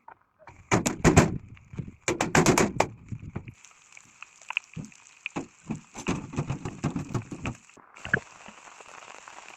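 A few loud knocks and rustles in the first few seconds, then a steady hiss of rain with scattered crackling and light clicks. The hiss briefly drops out near the eight-second mark.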